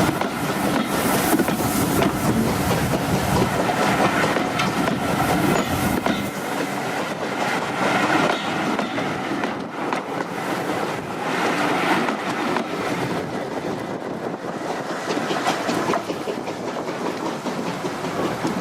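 A passenger train running steadily along the line, its wheels clicking over the rail joints under a continuous running noise.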